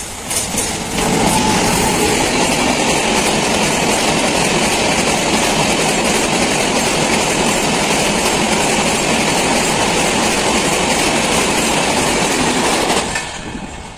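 Electric-hauled Indian express train passing close by at speed, the locomotive and a long rake of coaches rumbling over the rails. The noise comes up loud about a second in, holds steady while the coaches go by, and drops away quickly near the end as the last coach passes.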